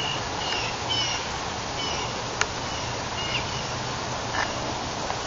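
Outdoor background with a bird giving short, high chirps at irregular intervals over a steady hiss. There is one sharp click about two and a half seconds in.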